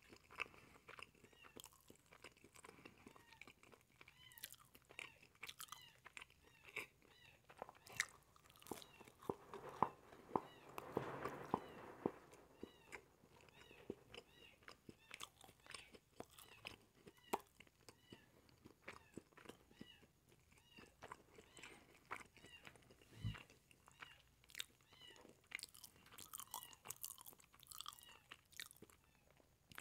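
Close-miked chewing of a cheese quesadilla: wet mouth sounds with many small clicks and smacks, a little denser a third of the way in. One low thump about two-thirds of the way through.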